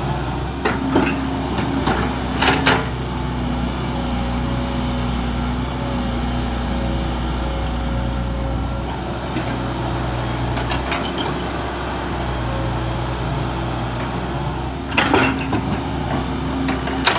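Diesel engine running steadily, with several knocks and clatters about a second in, at two and a half seconds, around eleven seconds and near the end, as a tractor trolley is loaded.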